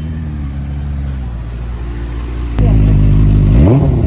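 Benelli TNT 600i's 600 cc inline-four engine idling, becoming much louder and closer suddenly about two and a half seconds in, then a quick throttle blip near the end, the revs rising and falling.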